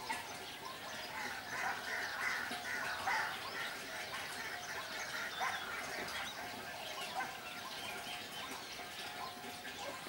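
Birds chirping and calling over one another, a dense chorus of short chirps, busiest between about one and three seconds in.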